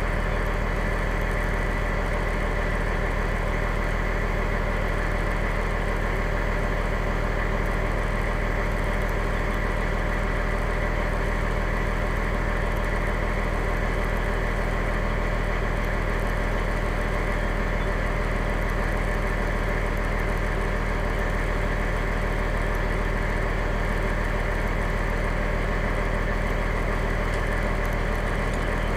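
Fire engine's motor running steadily at an unchanging speed, a constant low hum with no revving.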